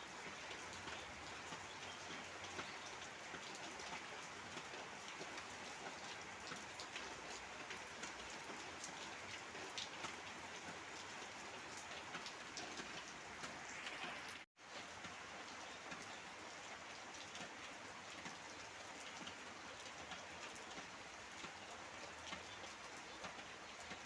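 Heavy rain falling steadily, a dense hiss with many separate drops pattering on surfaces. The sound cuts out for an instant a little past halfway.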